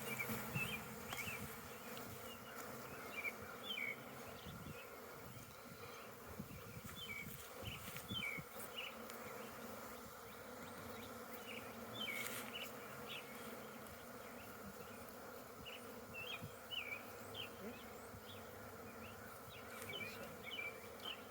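Honeybees buzzing steadily around an opened hive as frames are worked, with a few short knocks, the clearest about twelve seconds in.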